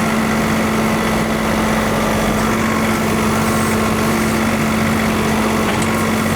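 John Deere 3046R compact tractor's diesel engine running steadily, an even hum with no change in speed.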